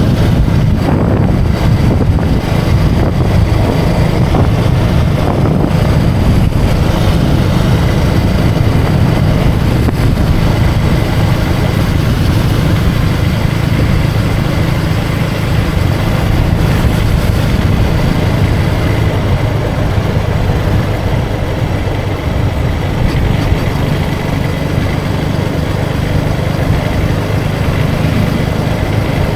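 KTM 250 Duke's single-cylinder engine running steadily as the motorcycle is ridden, a continuous low rumble with no change in speed or gear.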